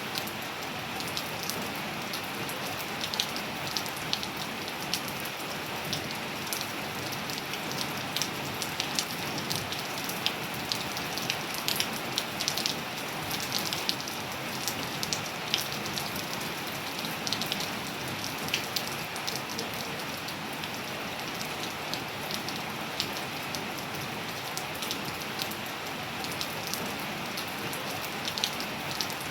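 Steady rain falling, with a dense hiss and many separate drops ticking close by.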